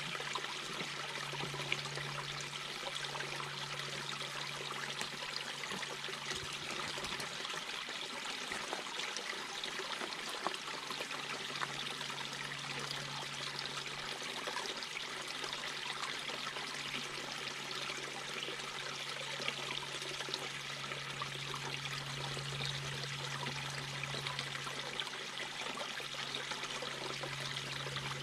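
Mountain brook babbling over rocks: a steady wash of running water with fine trickling detail. A low hum sits underneath, swelling and fading.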